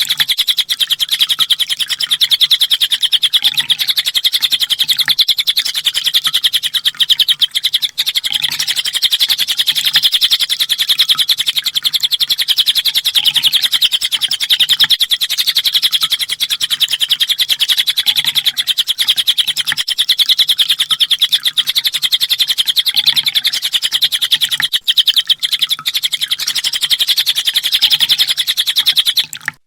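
Sunbird song of the kind Indonesian keepers call konin or kolibri ninja: a fast, unbroken trill of high chips, the rapid-fire 'tembakan' phrase, running on without pause and cutting off abruptly just before the end.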